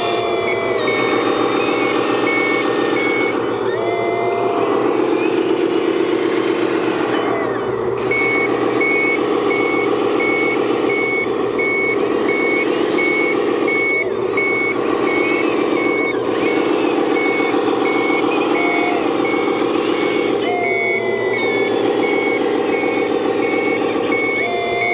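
Reversing beeper of an RC construction model, a steady string of even beeps at one high pitch, pausing for a few seconds early on and then carrying on, over the steady hum of the model machines' motors, which shifts in pitch now and then.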